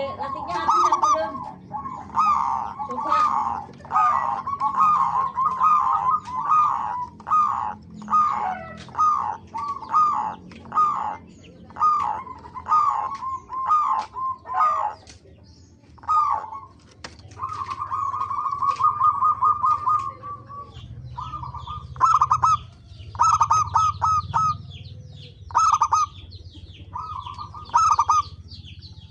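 Zebra dove (perkutut) cooing: a rapid series of short trilled coos, densely overlapping at first, with one longer unbroken rolling coo about two-thirds of the way through.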